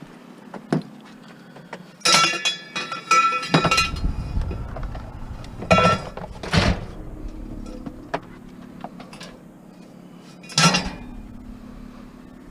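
Metal scrap being handled and dropped: a run of ringing clanks about two seconds in, two more near the middle and a last one near the end.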